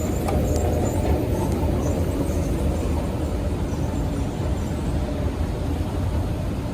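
Airport underground shuttle train running: a steady low rumble from the moving car.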